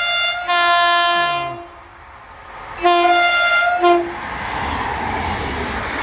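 Train horn sounded in long blasts, three of them, the last with a brief break near its end. Then the noise of the train running past.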